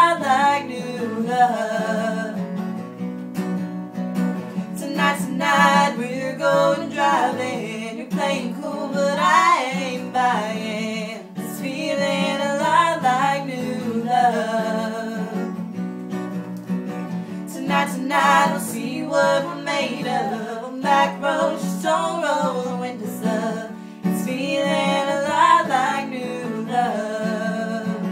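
A song sung over strummed acoustic guitar.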